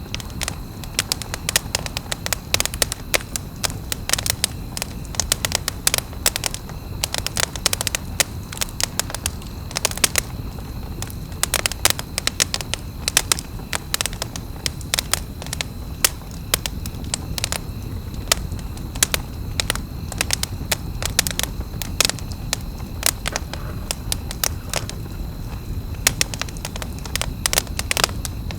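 Wood campfire crackling, with frequent sharp, irregular snaps and pops over a steady low rumble of burning.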